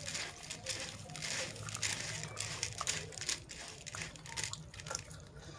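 Close-up crunching of dry flattened rice (chura) and salad being bitten and chewed, in quick irregular crackles.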